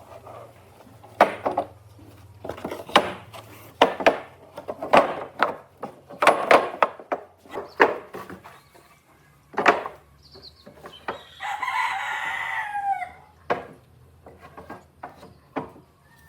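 Chickens clucking in a run of short, sharp calls, with a rooster crowing for about two seconds just past the middle. A low steady hum sits underneath.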